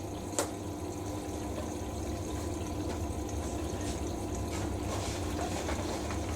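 Hoover SIX Inter@ct washing machine taking in water at the start of its wash cycle: a steady rush of water filling through the detergent drawer into the drum, with a faint steady hum. A single click about half a second in.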